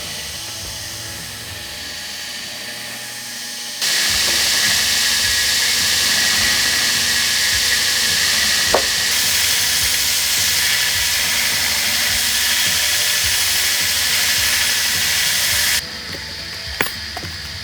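Power tool grinding steel: a loud, steady, high-pitched hiss that starts abruptly about four seconds in and cuts off abruptly near the end.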